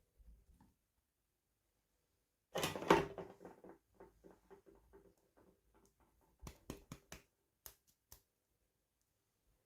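Small plastic toy packaging being handled: a sharp crinkle about two and a half seconds in, then a run of light clicks and taps as small pieces are handled.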